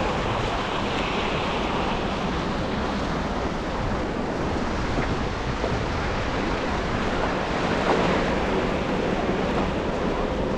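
Steady road and traffic noise from a car driving on wet, slushy city streets after snowfall: an even hiss of tyres on the wet road over the low hum of traffic.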